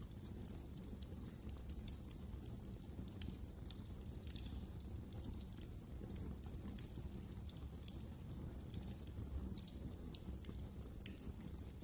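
Wood fire crackling: irregular small pops and snaps, several a second, over a low steady rumble.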